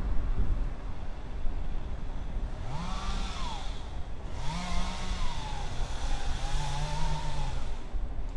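Steady wind rumble on the microphone while riding, with a small engine revving up and back down three times in the middle, each rev rising, holding briefly and falling.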